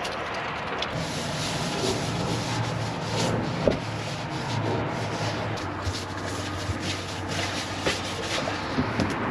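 Rustling, rubbing and small knocks of camping gear being handled and packed away.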